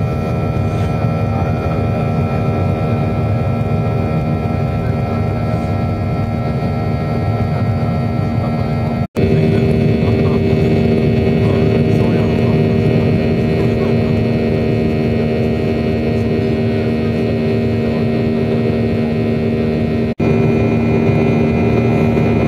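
Steady drone of a Boeing 737's CFM56 jet engines heard inside the cabin: a deep rumble with several steady whining tones. It cuts out briefly twice, and the tones shift slightly after each break.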